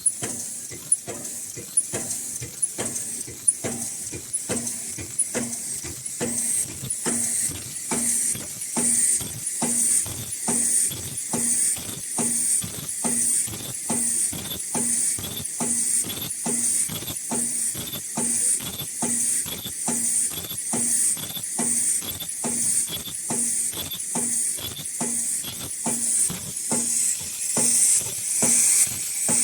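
High-speed automatic N95/FFP2 mask-making machine running, a regular cycle of sharp clicks and short hisses about twice a second. The hisses grow louder about six seconds in.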